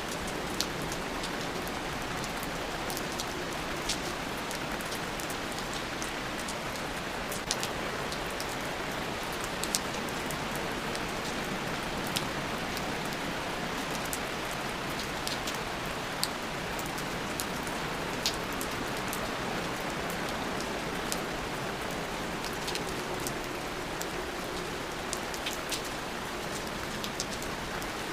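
Steady rainfall, a continuous even hiss with scattered sharp drips and drop hits landing close by at irregular intervals.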